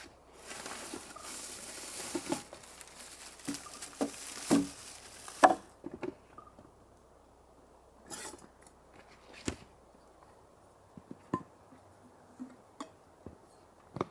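A hiss lasting about five seconds, mixed with knocks and clinks of things being handled, then scattered light knocks and clicks.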